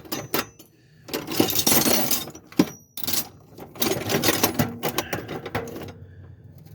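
Hands rummaging through loose clutter, items clattering and rustling in several bursts with short pauses, and one sharp click about two and a half seconds in.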